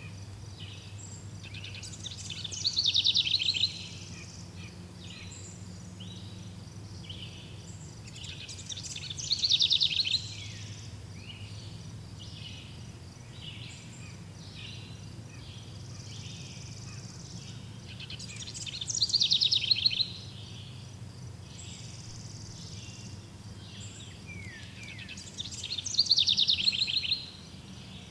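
Birds singing: one bird repeats a loud, fast trilled phrase that falls in pitch, four times about seven seconds apart, with shorter, softer calls from other birds in between. A steady low hum runs underneath.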